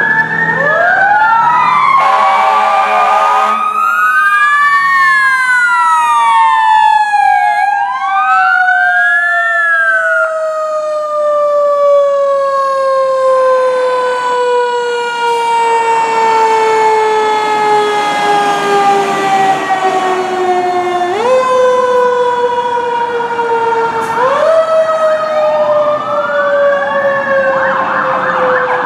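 Fire apparatus sirens wailing, several overlapping: quick rising-and-falling wails at first, then one long, slowly falling wail that is brought back up twice near the end. A steady horn blast sounds briefly about two seconds in.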